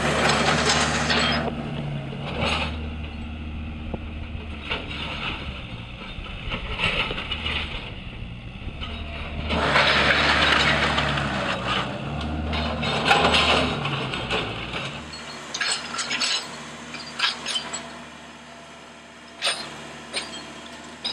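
A demolition machine's engine runs steadily while wooden house framing cracks, splinters and crashes down in several loud spells. About fifteen seconds in the engine drops away, leaving scattered cracks and clattering debris.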